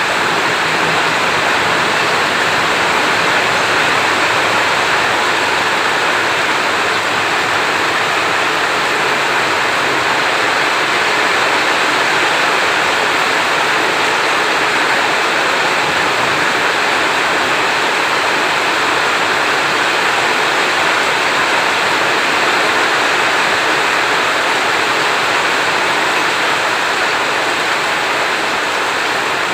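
Heavy rain falling in a steady, even hiss, with no thunder claps.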